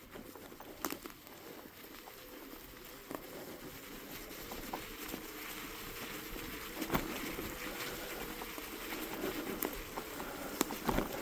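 Jasion EB5 Plus e-bike riding through snow: a steady patter of tyres over snow with scattered knocks, slowly growing louder.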